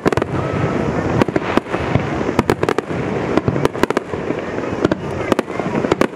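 Fireworks display: aerial shells bursting in quick succession, many sharp bangs a second at irregular intervals over a constant dense din.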